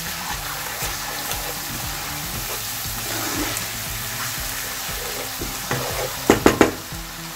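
Onions frying in hot palm oil, sizzling steadily while a wooden spatula stirs and scrapes through the pan. A quick cluster of three or four sharp knocks comes near the end.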